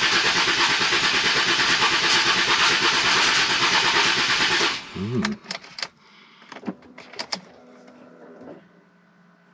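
Ford Mondeo ST220's 3.0 V6 being cranked on the starter motor with the fuel relay removed, so it turns over without firing to build oil pressure; the starter is one the owner thinks is on its way out. The cranking runs steadily, then stops about five seconds in as the starter winds down, followed by a few sharp clicks.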